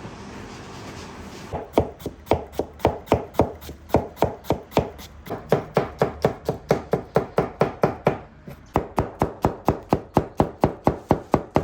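Knife chopping food on a cutting board in steady, rapid strokes, about three a second, starting about two seconds in with a brief pause a little past the eight-second mark.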